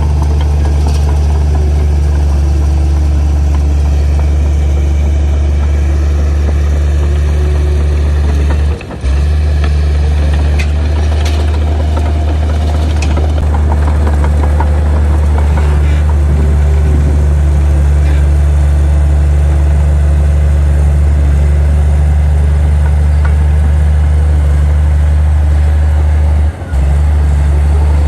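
Heavy diesel engine of a Komatsu D58P bulldozer running steadily under work, its pitch drifting up and down as the load changes. The sound drops out briefly twice, about 9 seconds and about 27 seconds in.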